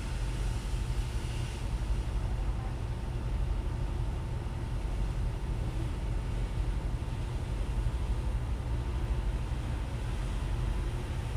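Tugboat engine running steadily: a deep, even rumble with a faint steady whine above it.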